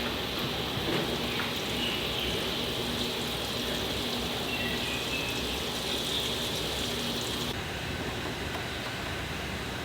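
Water rushing steadily into a washing machine as it fills, a continuous hiss whose higher part drops away about three-quarters of the way through.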